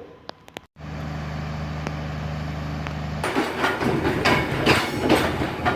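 Train sounds, cut together: a steady low engine hum, then, after a cut about three seconds in, a running train with repeated rail knocks and clatter.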